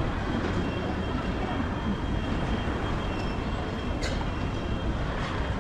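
Steady low rumble of railway-station hall background noise, with a faint high steady tone and a single sharp click about four seconds in.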